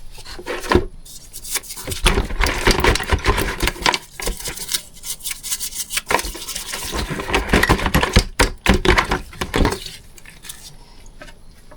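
Hand scrubbing of a metal engine piston with fine 1200-grit abrasive: fast back-and-forth scratchy rubbing with small clinks, easing off near the end as the residue is cleaned from the sides and ring area.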